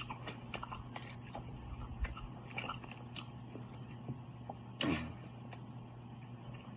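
Close-miked eating sounds: small wet smacks and clicks of chewing seafood, over a steady low hum, with one brief louder sound about five seconds in.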